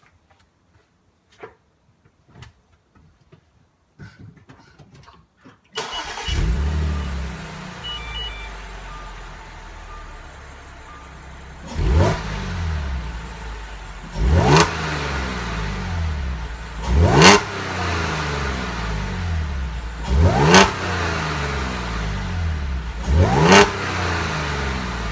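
A 2016 Audi S4's supercharged 3.0-litre V6 is started about six seconds in, after a few faint clicks, flaring briefly and then settling to a steady idle while the dash chimes a few times. It is then revved five times in short, sharp blips about three seconds apart, each falling straight back to idle.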